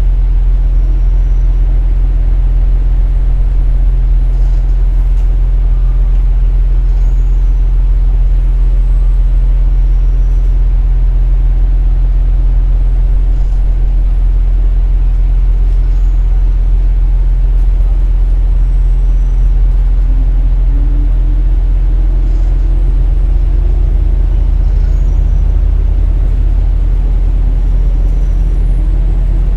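KiHa 47 diesel-hydraulic railcar under way, its engine giving a loud, steady low drone, with a fainter tone that slowly rises in pitch from about two-thirds of the way through.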